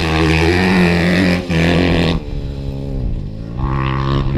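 Dirt bike engine held at high revs for about two seconds while the rear tyre is spun in a burnout. It then drops back and revs up again near the end.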